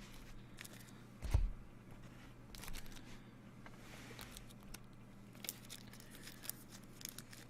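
Trading card pack wrapper being torn open and crinkled, with small clicks as the cards are handled, over a faint steady hum.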